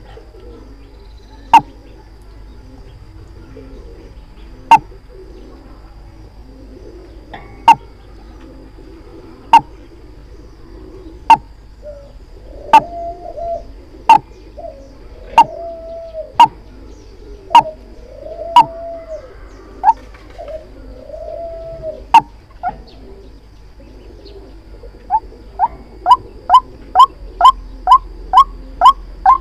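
White-breasted waterhen calling, a decoy recording for trapping: loud, sharp single notes repeated every second or two, with lower arched calls in between, then speeding up to a rapid run of about three notes a second near the end.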